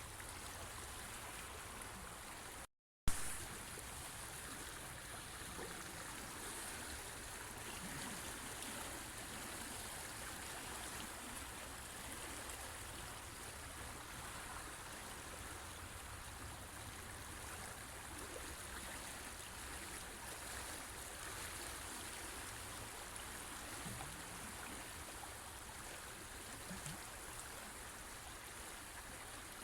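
River water flowing steadily over rocks, with a brief dropout to silence and a sharp click about three seconds in.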